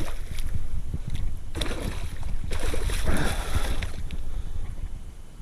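Wind rumbling on the microphone over a kayak on the water, with two stretches of splashing and sloshing water, about a second and a half and about three seconds in, as a hooked bass is fought close to the boat.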